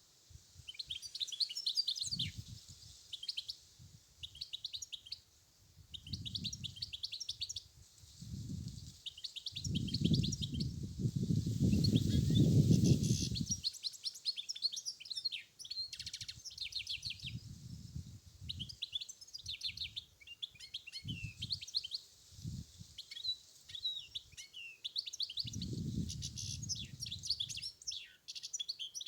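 European goldfinch singing: quick twittering, trilling phrases repeated with short pauses. Low rumbles of wind on the microphone come and go, the longest and loudest about ten seconds in.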